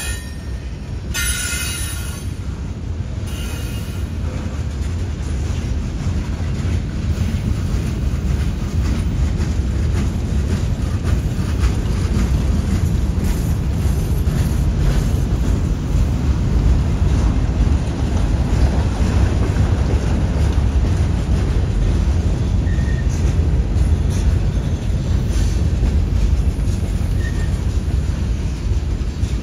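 CSX freight train rolling past on the rails: a steady, heavy low rumble of wheels and cars with faint clicks, growing slightly louder through the passage.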